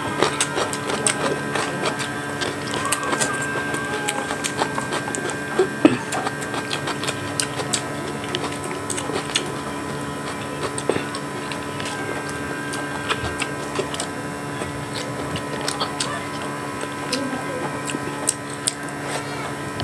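Close-up eating sounds of a man chewing brown rice and grilled tilapia eaten by hand: many small wet clicks and lip smacks. A steady background hum runs underneath.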